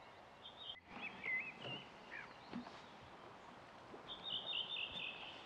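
Songbirds singing at a lakeshore: short warbled phrases about a second in, then a longer run of quick repeated notes near the end, over a faint outdoor hush.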